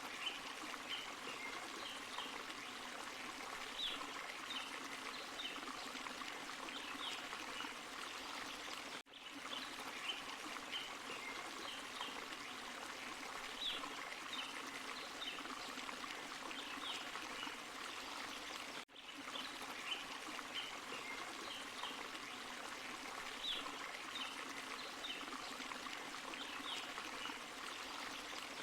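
Water of a small forest waterfall and stream running steadily, with many small splashes through the rush. The recording repeats about every ten seconds, with a brief dip in level each time the loop restarts.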